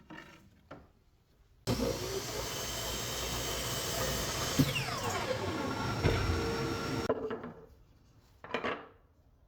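Power tool cutting scrap wood for about five seconds: it starts abruptly, runs with a steady dense whine and fades out. A few light knocks come before and after it.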